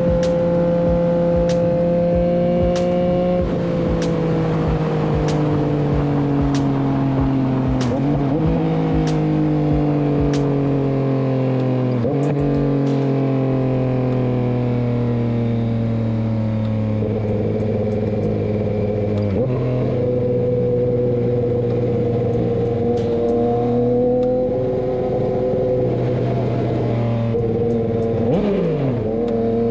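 Motorcycle engine running under way, its pitch sinking slowly with a few sudden steps that sound like gear changes. A regular tick, about one every three-quarters of a second, runs through roughly the first ten seconds.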